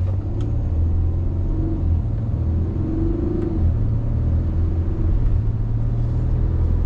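Audi car's engine pulling away and accelerating, heard from inside the cabin: a steady low rumble with an engine note that rises in pitch over the first few seconds.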